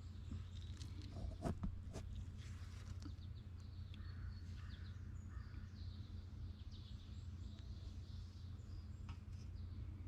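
Steady low hum, with a few light clicks about a second and a half in and faint bird chirps.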